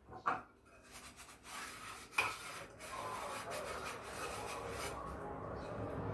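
Two short knocks, then steady scrubbing by hand from about three seconds in.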